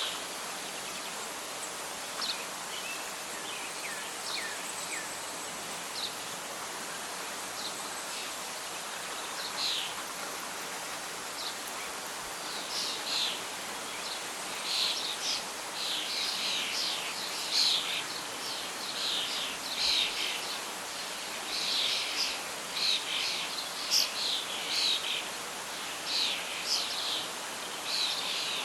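Birdsong over a steady hiss of wind and rustling leaves: scattered short chirps at first, becoming a busy run of calls about halfway through.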